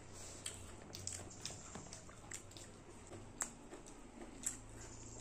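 Close-up eating sounds: soft chewing with scattered small wet clicks and crunches from a salad of shredded raw vegetables, eaten by hand.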